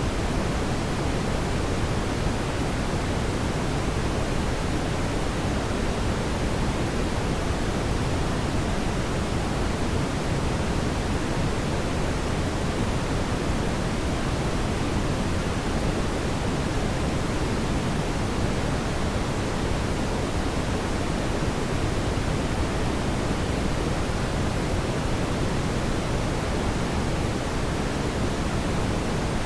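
Fireplace fire burning with a steady, even rushing sound and no distinct crackles or pops.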